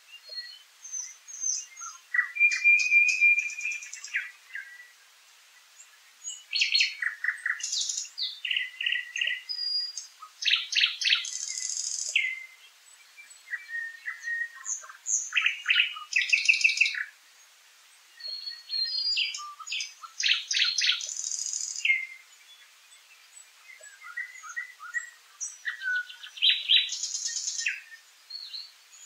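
Songbirds singing: loud phrases of rapidly repeated notes and high trills, a few seconds each, with short pauses between them.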